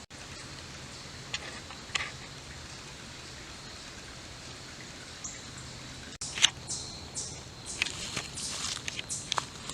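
Quiet outdoor woodland ambience with a few small clicks. After a sudden break about six seconds in come irregular crunching steps on the trail.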